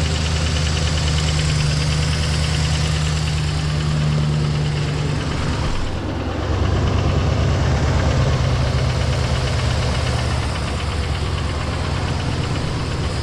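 2016 GMC Sierra 2500's V8 idling with a steady, regular engine knock; the owner suspects a lifter or a rod or main bearing. About six seconds in the sound dips briefly, then comes back a little louder and lower.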